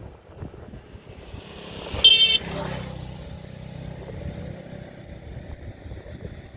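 Outdoor traffic noise with a short, loud vehicle horn toot about two seconds in, followed by a motor vehicle's engine running for a few seconds.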